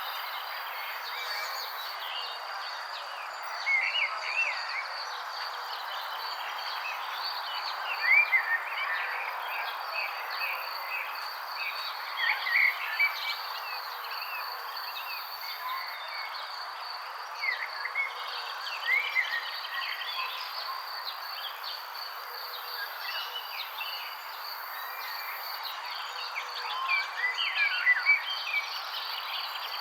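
Birds chirping in short scattered phrases every few seconds, over a steady outdoor hiss and a constant high, insect-like buzz.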